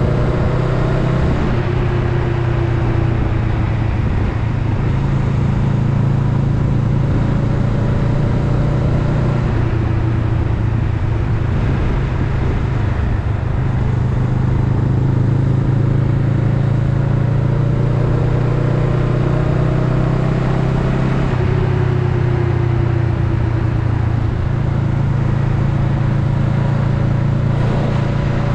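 Honda Rebel 500's parallel-twin engine running under way, its pitch dropping about two, ten and twenty-two seconds in and climbing again in between as the bike slows and speeds up.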